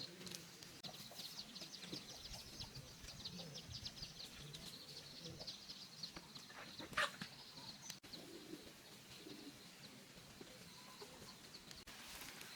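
Faint, rapid high-pitched bird chirping, with a single sharp knock about seven seconds in.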